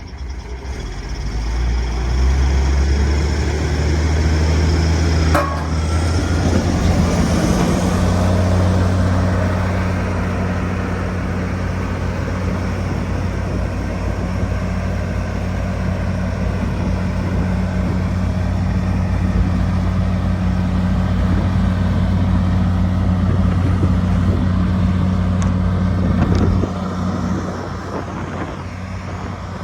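Sakai road roller's engine running with a steady low drone. It swells in the first couple of seconds, rises slightly in pitch around six seconds in, and drops back somewhat near the end.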